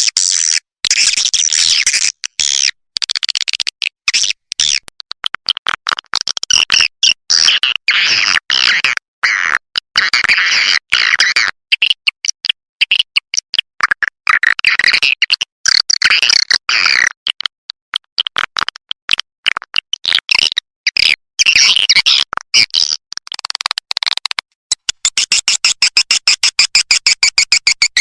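Recorded swiftlet calls of the kind played to lure swiftlets into a nesting house: dense, rapid high chittering and twittering in bursts. Near the end it turns into a fast, even run of clicks.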